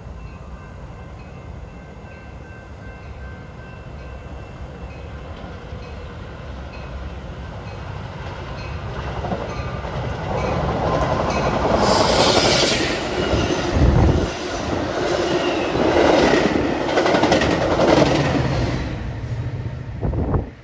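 A train approaching and passing close by, its wheels clattering rhythmically over the rail joints. It grows louder over the first half and is loudest in the second half, then cuts off suddenly at the end.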